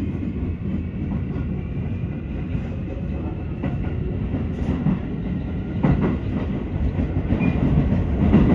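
JR Shikoku 7200 series electric commuter train heard from inside the car as it pulls away from a station: a steady rumble of wheels and running gear, with a few rail-joint clacks in the second half.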